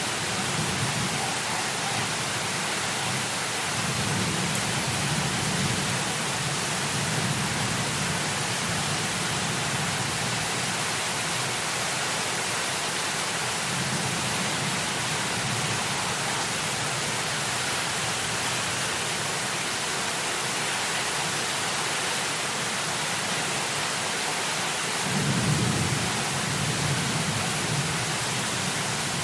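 Heavy rain as a steady hiss, with low rolls of thunder that swell and fade several times, the strongest a few seconds before the end.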